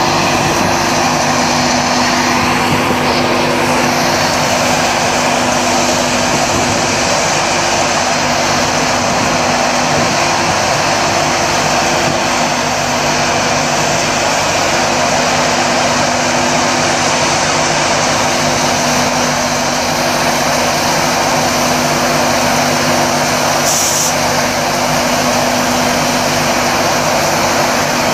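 Train running close by: a loud, steady rush of noise with a steady low hum under it, and a short high hiss about 24 seconds in.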